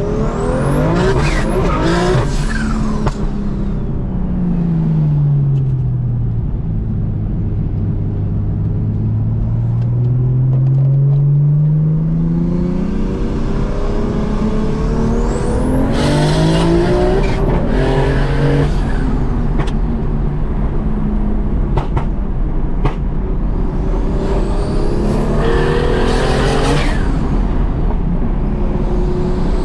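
Single-turbo BMW M2 Competition straight-six, with a straight-through titanium exhaust, pulling hard through the gears of its manual gearbox several times. The revs climb in bursts and fall back between pulls, with a steadier cruise in between and a few short sharp cracks about two thirds of the way through.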